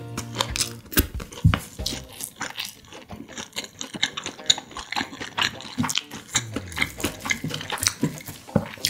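Close-miked wet chewing and mouth sounds from a mouthful of rice and stir-fried kimchi, with repeated small clicks of a wooden spoon and chopsticks against the plate.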